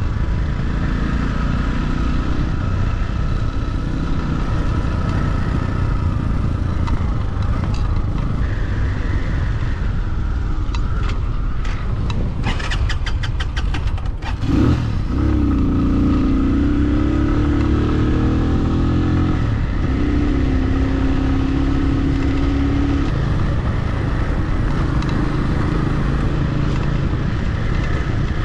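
Motorcycle engine running as the bike is ridden, with a steady rumble. About halfway through comes a quick run of clicks, then the engine note rises in pitch as it accelerates and settles into a steady tone.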